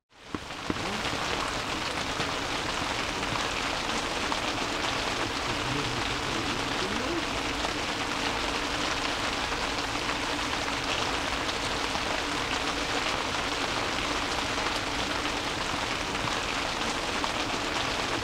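Steady rain falling on a one-touch camping tent, heard from inside the tent. It fades in from silence within the first second, then holds even.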